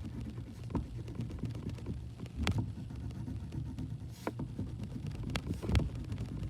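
Crayon rubbing on paper while colouring, with a few sharp taps as the crayon strikes the page, over a low steady hum.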